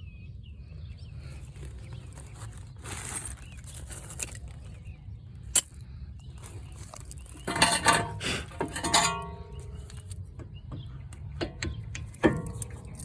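Metal tools and parts clinking and clanking during brake work on a car: a sharp click, then a cluster of clanks with brief metallic ringing about halfway through, and one more ringing clank near the end, over a steady low rumble.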